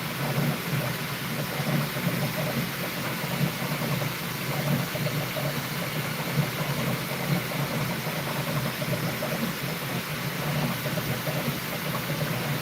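Bambu Lab P1S 3D printer running mid-print: a steady whir of fans with a low motor hum that wavers as the print head moves.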